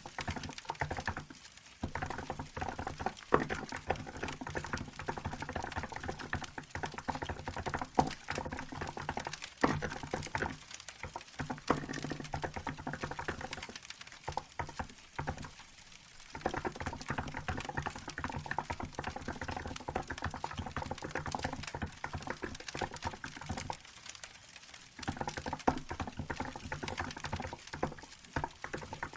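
Fast, continuous typing on a Hansung GK868B mechanical keyboard with milk-white keycaps: a dense run of key clacks that stops for brief pauses a few times. A wood fire crackles softly underneath.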